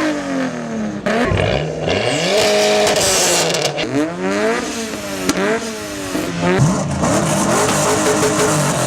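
Car engine revving hard through a series of gear changes. The pitch climbs, then drops at each shift, several times over, with a few sharp cracks.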